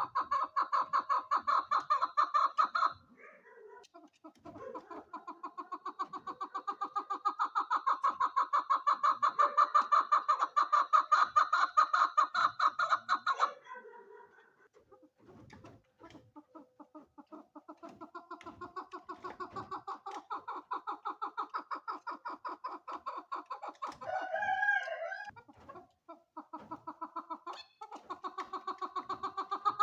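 Female chukar partridge calling: long runs of rapid, evenly repeated clucking notes, broken by a few short pauses. A brief louder, wavering call cuts in about three-quarters of the way through.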